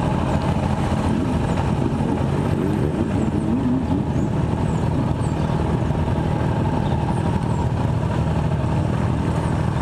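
Motorcycle engine running steadily at low speed, with a dense low-end rumble.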